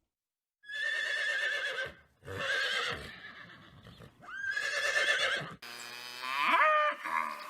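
A horse whinnying three times, each call a shaky, quavering whinny about a second long. Near the end a different, lower animal call starts, rising in pitch.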